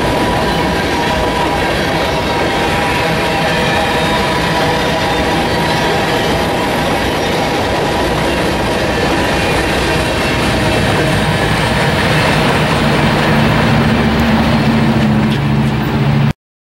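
Freight train of covered hopper cars rolling past: a steady rumble and clatter of steel wheels on rail, with thin squealing tones from the wheels. The sound cuts off suddenly just before the end.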